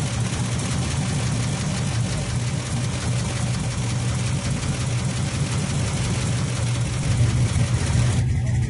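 V8 engine of a 400 hp 1972 Chevrolet Nova idling steadily, with a deep even note.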